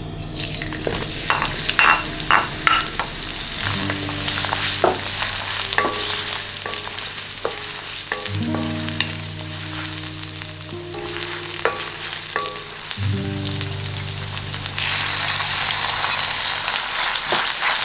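Garlic and onion sizzling in hot oil in a wok, stirred with a wooden spatula, with sharp taps and scrapes of the spatula against the bowl and pan in the first few seconds. Near the end raw chicken slices go into the pan and the sizzle grows louder and fuller. Soft background music with long low notes plays underneath.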